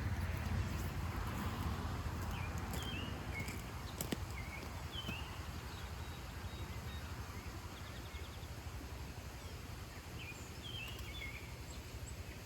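A bird chirping in short groups of quick, falling notes, several times, over steady outdoor background noise, with a single sharp click about four seconds in.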